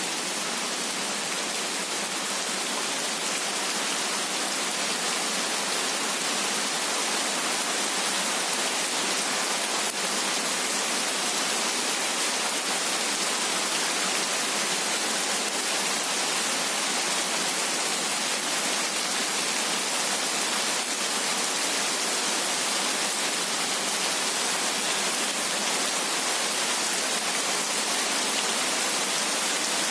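Heavy rain falling in a steady, even hiss that never swells or breaks.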